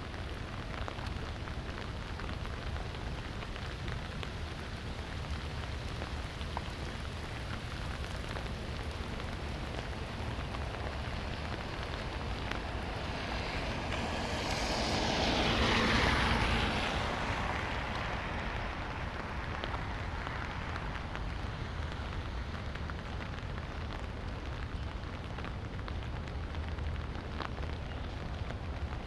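Light rain falling steadily, with a car passing on the wet street about halfway through: its tyre hiss swells to a peak and fades away over several seconds.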